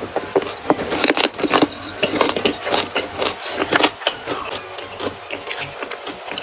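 Close-up eating sounds: a person biting and chewing crunchy food, with many sharp, irregular crunches and mouth clicks, thickest in the first four seconds and sparser after.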